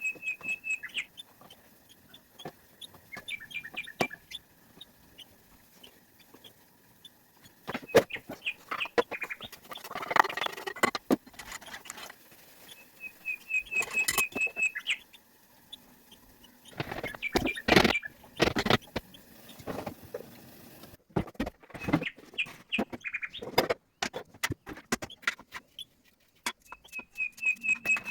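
A small bird chirping in short, rapid trills that come back every few seconds. Between the trills are clusters of sharp clicks and knocks, the loudest about a third of the way in and again past the middle.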